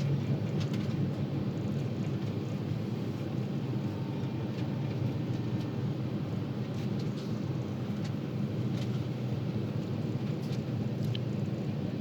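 Train running: a steady low rumble with a few faint clicks.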